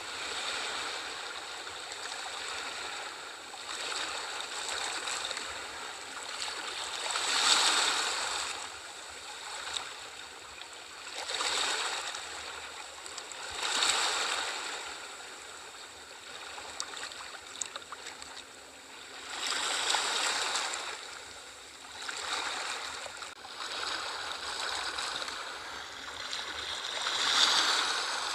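Sea waves washing in, a rushing surf noise that swells and falls back every few seconds, with the loudest surge near the end.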